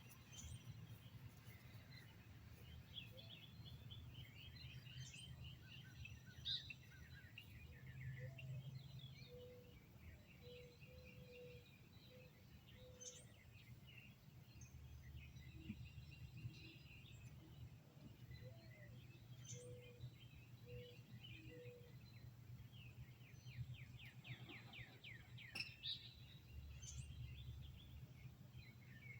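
Wild birds singing and chirping, several at once, with fast trills and, at intervals, runs of short low notes. A faint steady low rumble sits underneath.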